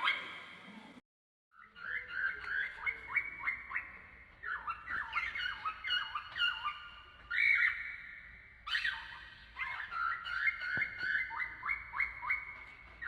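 Cockatiel chirping in quick runs of short, repeated calls, several a second. The sound cuts out briefly about a second in.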